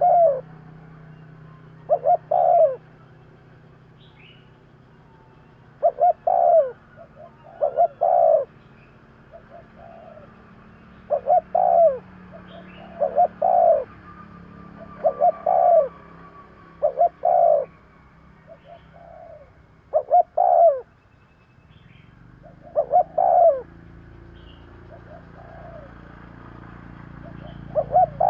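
Spotted dove cooing: short, low, hollow coo notes in groups of two or three, the phrase repeated every couple of seconds, as used as a lure call for wild doves.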